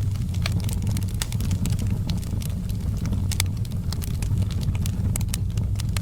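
Wood fire burning in a fireplace, crackling with irregular sharp snaps and pops over a steady low rumble.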